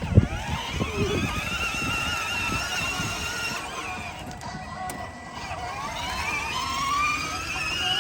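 Electric ride-on toy monster truck's motor and gearbox whining as it drives, rising in pitch as it speeds up, dipping about halfway, then climbing again. A few knocks and rumbles near the start.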